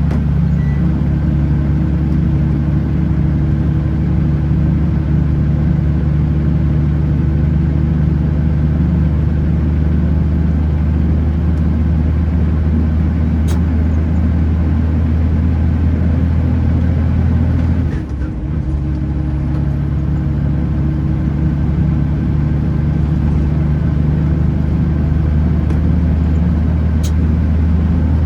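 Kenworth T909 truck's engine running with a steady, loud drone over road noise. About two-thirds of the way through, the engine note drops away for a moment and then comes back at the same pitch.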